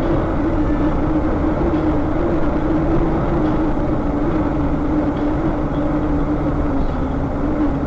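A road vehicle's engine running at a steady drone, its pitch easing down slightly, over a low road rumble.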